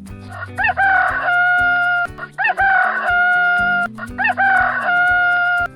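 Rooster crowing three times in a row, each crow a short rising start and then a long held note, over background music with a steady beat.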